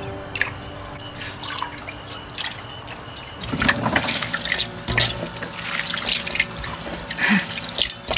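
Light drips and trickles of water at first, then, from about three and a half seconds in, repeated splashing and sloshing as hands rub and squeeze soaked glass noodles in water in a stainless steel bowl.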